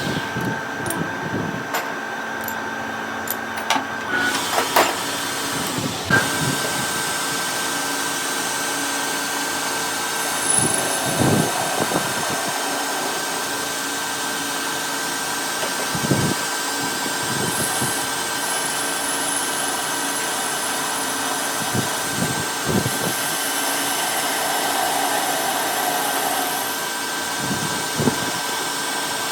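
An electric metalworking machine running steadily with a constant whine, with short knocks and clatters now and then.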